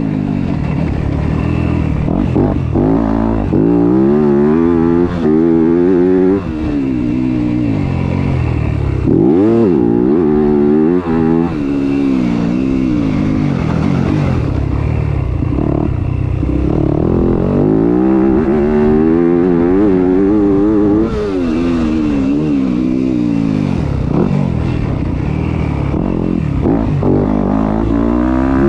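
Motorcycle engine being ridden hard, its pitch climbing and dropping again and again as the throttle opens and closes.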